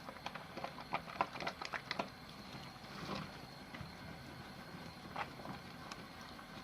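Wet soap being lathered, with a quick run of small wet squishes and crackles for the first two seconds, a softer swish about three seconds in and one more squish a couple of seconds later.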